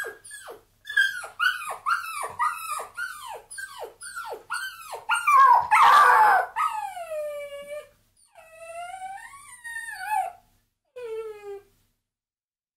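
A dog yelping in a quick run of short, high, falling yelps, about two a second. Then comes a louder harsh bark, followed by long whining howls that fall and rise, and a short whimper near the end.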